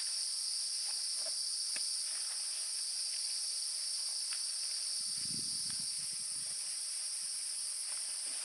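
Steady chorus of forest insects, a continuous high-pitched buzzing in two pitch bands, with a few faint ticks and a soft low rustle about five seconds in.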